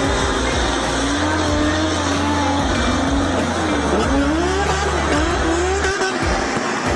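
A motor vehicle's engine revving, its pitch rising and falling repeatedly, over background music with a stepping bass line.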